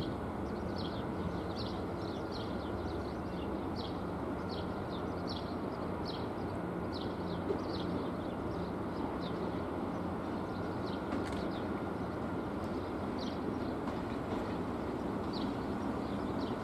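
Steady low rumble and hum of trains in a station as an SNCF electric locomotive hauling passenger coaches draws slowly in. Small birds chirp throughout, short high falling chirps a few times a second.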